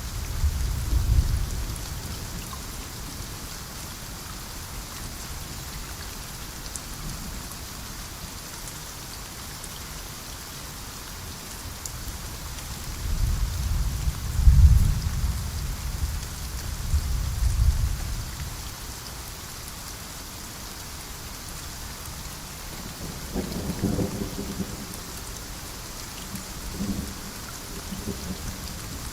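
Steady rain hissing, with deep rolls of thunder: one at the start, a longer, louder roll about halfway through, and a weaker rumble near the end.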